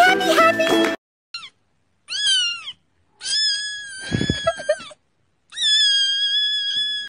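A kitten meowing and crying four times in high-pitched wails, the first one brief and the last two long and drawn out, the last cut off suddenly. A low bump sounds in the middle of the third cry. Music cuts off about a second in, just before the first meow.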